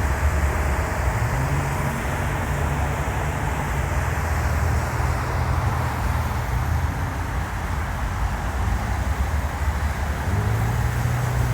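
Steady low outdoor rumble with a hiss over it, with no clear single event.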